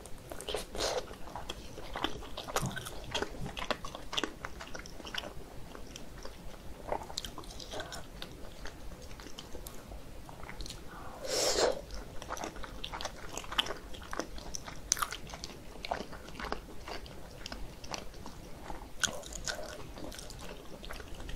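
Close-up eating sounds of Korean dumplings (mandu): biting and chewing, with wet smacks and small clicks scattered throughout. One louder wet sound comes about halfway through.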